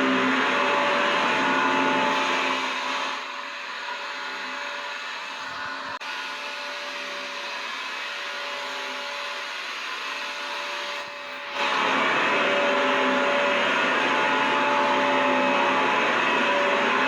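Vacuum cleaner running, a steady rush of air with a held motor whine. About two and a half seconds in it turns quieter and duller for several seconds, then jumps back to full strength abruptly about twelve seconds in.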